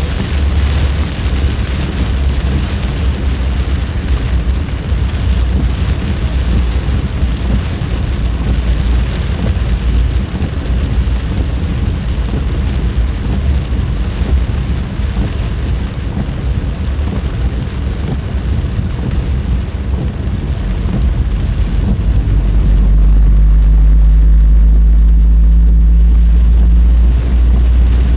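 Car driving in heavy typhoon rain: steady deep road and tyre rumble with rain on the car. About three quarters of the way through, a louder, steady low rumble with a faint thin whine on top lasts about five seconds.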